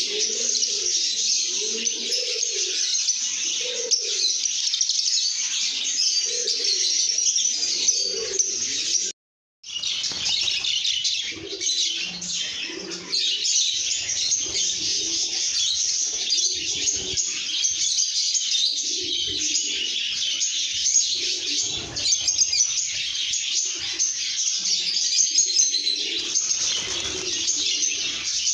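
A flock of lovebirds chirping and chattering continuously, shrill and dense, with lower warbling calls beneath. The sound cuts out completely for about half a second roughly a third of the way in, then carries on.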